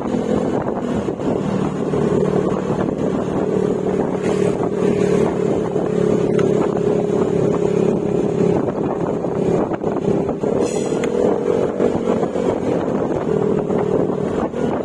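Yamaha Mio Gravis scooter's single-cylinder engine running under way through an aftermarket Akrapovic exhaust with silencer, over wind and road noise. The engine note holds mostly steady, rising briefly about two-thirds of the way through before settling again.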